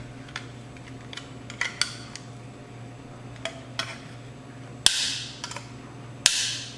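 Light clicks and taps from handling the small sheet-metal casing of a receiver's AM/FM tuner module as it is pried open, then two sharp snaps about a second and a half apart, each trailing off in a brief hissy scrape.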